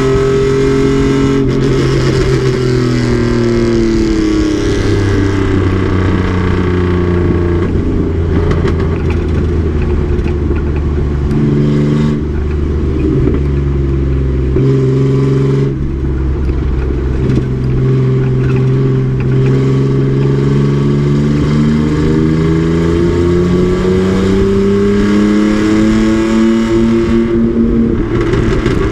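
Race truck's engine running hard on track: its pitch falls over the first few seconds as it slows, holds low with a few brief breaks where the throttle lifts or it shifts, then climbs steadily through the second half under acceleration before dropping again near the end.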